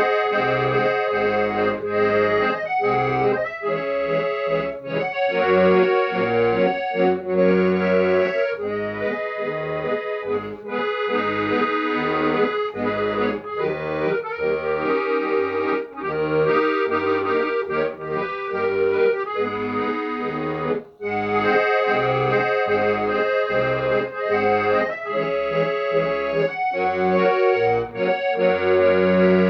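Accordion playing a tune, with melody notes held over a pulsing bass-and-chord accompaniment.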